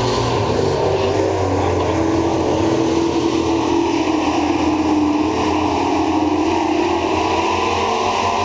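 Several super truck race engines running at racing speed on a dirt oval, their pitch rising and falling as they go through the turns and down the straights.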